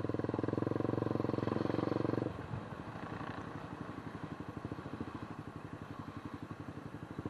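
Small motorcycle engine running with a fast, even pulse. Its note drops and quietens a little over two seconds in, then runs on steadily.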